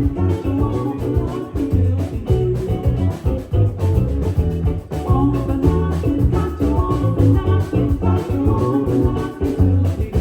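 Live rock band playing a song with drums, bass and guitar, heard loud through a phone's microphone in a club.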